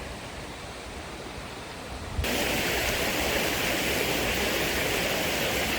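Water in a stream rushing steadily. About two seconds in there is a sudden cut to a closer, louder and brighter rush of water.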